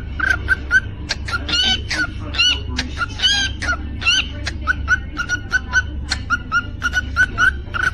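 Cockatiel chirping in a quick repeated series of short high notes, with a few longer warbling whistles from about one and a half to four seconds in. Sharp clicks and a steady low hum run underneath.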